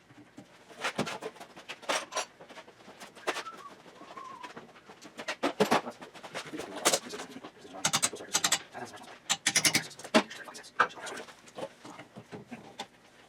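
Irregular metallic knocks, clinks and short rattles of hand tools working on a VW buggy's front beam, some coming in quick clusters.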